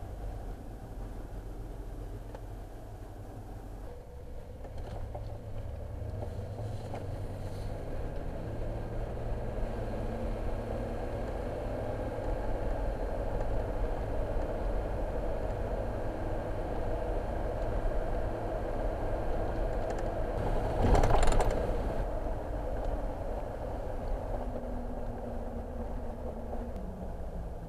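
Car running along a road, heard from inside: a steady engine and road rumble, with a brief louder noise about three-quarters of the way through.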